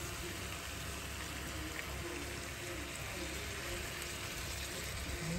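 Chicken in red chilli sambal sizzling steadily in a frying pan, an even hiss, as canned evaporated milk is poured in.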